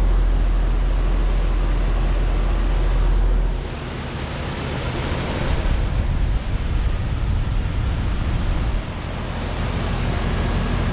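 Outdoor heat pump condensing units running in cooling mode: a steady rush of condenser-fan air over the hum of Copeland scroll compressors. A heavy low rumble in the first few seconds drops away about three and a half seconds in.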